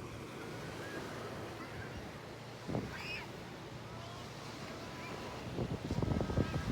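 Sea waves washing ashore under steady wind noise on the microphone, with gusts about three seconds in and again near the end. Faint high wavering calls sound over it.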